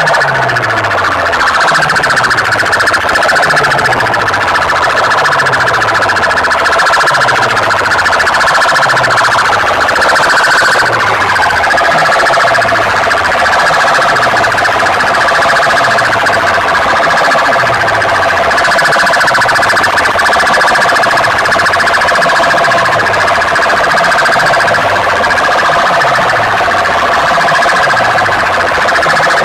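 Very loud siren-like electronic tones blasting from a competition loudspeaker rig, with a deep falling bass sweep repeating about once a second.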